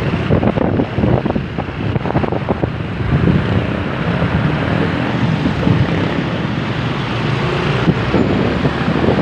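Wind buffeting the microphone on a moving motorbike, with vehicle and road noise beneath.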